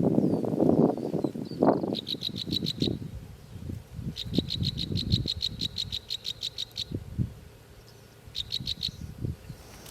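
Three bursts of rapid, high-pitched chirping trills, about eight or nine even pulses a second, the longest lasting nearly three seconds. Underneath, low rustling that is loudest in the first two seconds, then scattered soft thuds.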